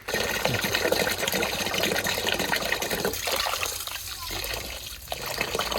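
Running water splashing, a steady rushing noise.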